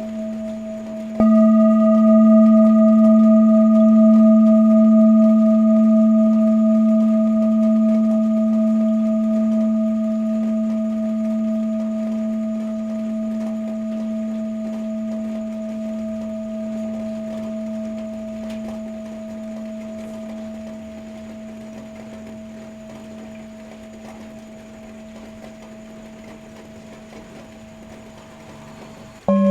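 Tibetan singing bowl struck about a second in. It rings with a deep tone and higher overtones, one of which wavers in a slow beat, and fades gradually over the rest of the time. Right at the end a lower-pitched bowl is struck.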